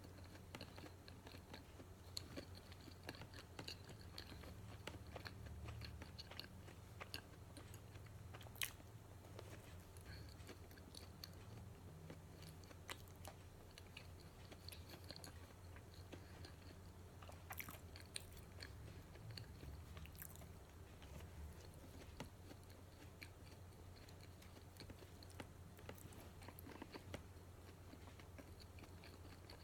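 A person chewing and biting into soft matcha donuts, with quiet mouth sounds and many small scattered clicks, one sharper click about a third of the way in.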